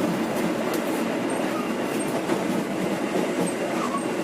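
Carriage of a moving passenger train rolling along the track: a steady rumble with a few faint clicks from the wheels over the rails.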